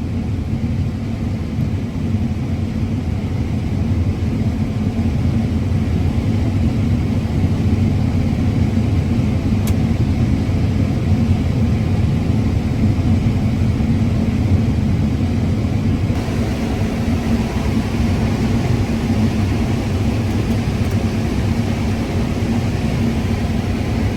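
Combine harvester running steadily while cutting corn: a constant low drone.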